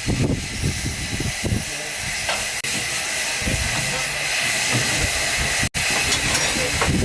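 Steam locomotive hissing steadily, steam escaping as it stands, over a low irregular rumble; the sound cuts out for an instant about five and a half seconds in.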